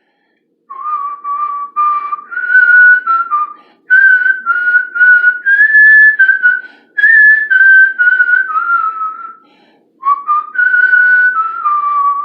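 A person whistling a tune, one clear note at a time, in short phrases with brief breaks between them.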